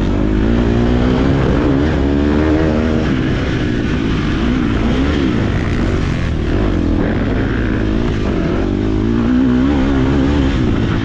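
KTM 250 SX-F four-stroke motocross bike engine being ridden hard, its revs rising and falling again and again as the throttle is worked, over a steady low rumble.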